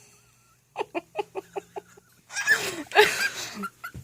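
Pet bird vocalising: a quick run of short clucking sounds, about seven a second, then a longer, louder call with wavering pitch.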